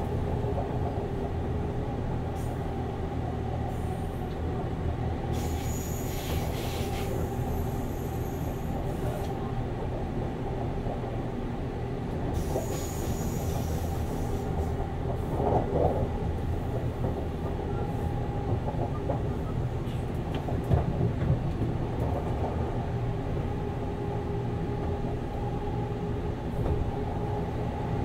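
Running sound heard inside the passenger cabin of a JR 189-series express EMU motor car (MoHa 189, MT54 DC traction motors) on the move: a steady rumble of wheels on rail and motor. Two stretches of high-pitched wheel squeal come in, about a quarter and halfway through.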